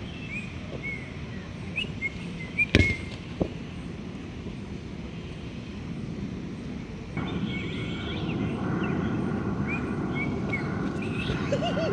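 Outdoor ambience with small birds chirping, and a single sharp smack of a volleyball being hit about three seconds in, followed by a lighter tap. From about seven seconds in, a steady background hum of noise comes up and stays louder.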